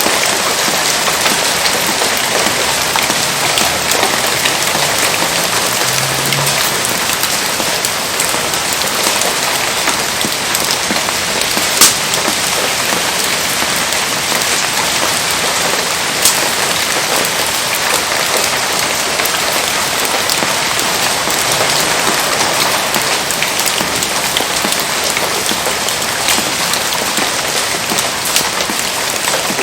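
Heavy rain falling steadily in a dense, even hiss. A few sharp snaps cut through it, the loudest about twelve seconds in.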